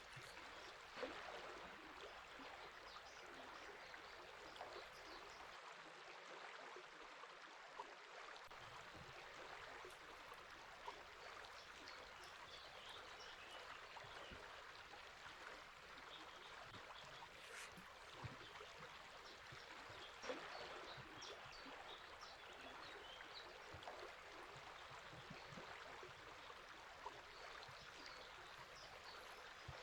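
River water flowing in a steady, faint rush, with scattered small bird chirps above it.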